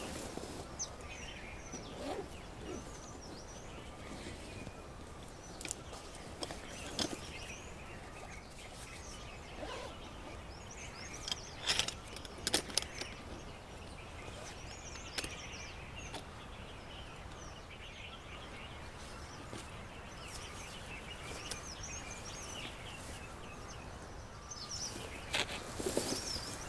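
Outdoor bird ambience: several small birds chirping and calling on and off over a steady background hush, with a few sharp knocks or snaps, the loudest a cluster about twelve seconds in.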